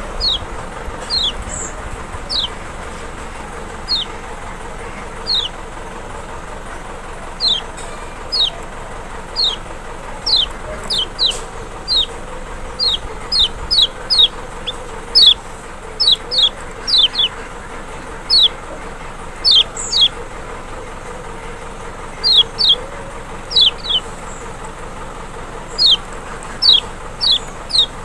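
Lombok white-eye (kecial, Zosterops chloris maxi) calling: short, high whistles that slide downward, given singly or in quick pairs about once a second, over a steady background hiss. It is a lure call meant to draw an answer from white-eyes.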